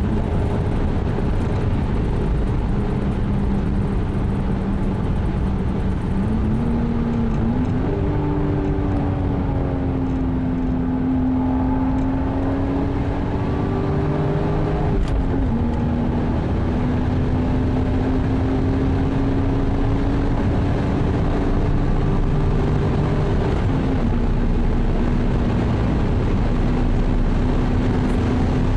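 1996 Toyota Supra's 2JZ-GTE twin-turbo straight-six running steadily at speed over heavy road and wind noise. Its pitch drops a little near the start and again about halfway through, and rises twice.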